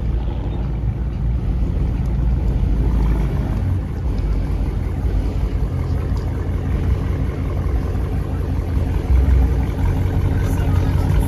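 Car engines rumbling low and steady, with no single rev standing out.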